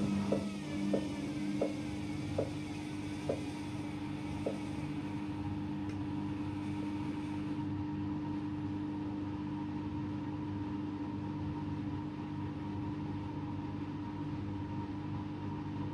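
AEG Lavamat Turbo washer-dryer running with a steady motor hum. Early on a series of light clicks comes slower and slower and stops about five seconds in, and a higher hiss dies away a little later.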